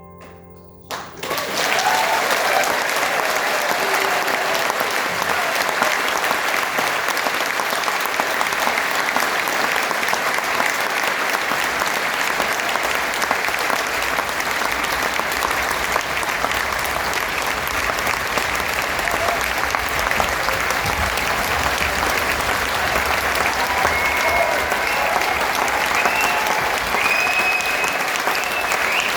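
The last notes of the song die away and audience applause breaks out about a second in, continuing steadily.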